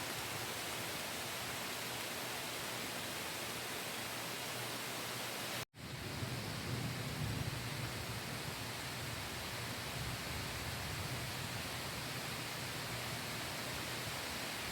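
Steady, even rushing noise of stormy summer weather outdoors. A split-second cut to silence comes about six seconds in, after which a low rumble is a little stronger.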